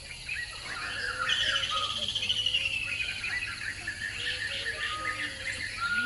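Several birds calling: a scatter of short chirps, with a fast, high trill about a second in that lasts about two seconds, and short whistles near the end.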